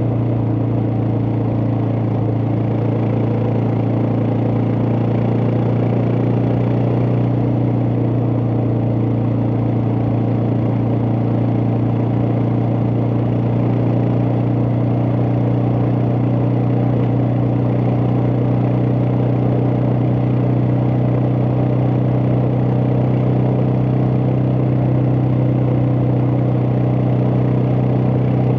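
Suzuki DR650's single-cylinder four-stroke engine running at a steady speed, its pitch holding constant.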